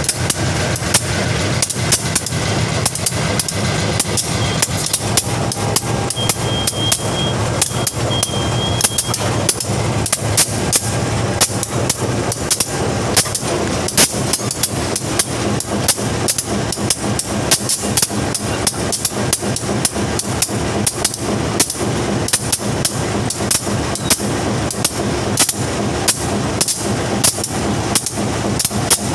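Loaded ballast freight wagon rolling along the track: a steady rumble with many irregular sharp clanks and knocks from the wheels on the rails and the loose couplings.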